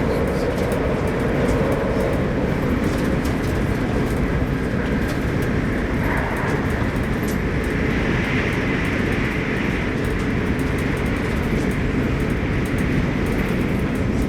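Steady low rumble and hum of the Arlanda Express electric train, heard from inside a passenger carriage, with faint light ticks and rattles.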